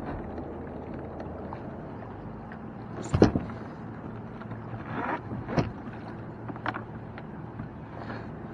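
Kayak and gear knocking on the water, a handful of sharp knocks with the loudest about three seconds in, over a steady low rumble.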